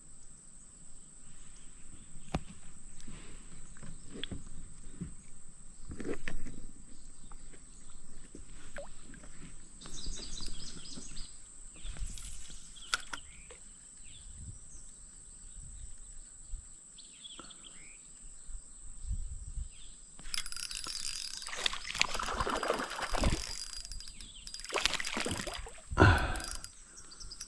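Outdoor creek ambience with a steady high-pitched insect drone from crickets, and scattered light knocks from a plastic kayak and fishing gear. Louder splashing and water noise comes in about three-quarters of the way through.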